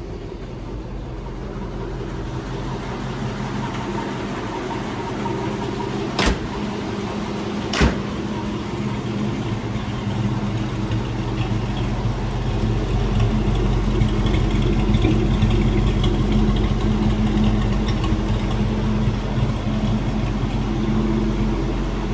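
1929 Packard 626's straight-eight engine idling steadily just after a cold start, on a little choke. It gets gradually louder over the first half, with two sharp clicks about six and eight seconds in.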